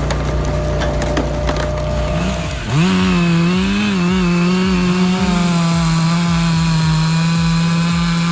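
Stihl MS 462 two-stroke chainsaw cutting wood, with cracking from the wood at first. About three seconds in the engine jumps to a higher, steady full-throttle pitch, wavering slightly as it cuts.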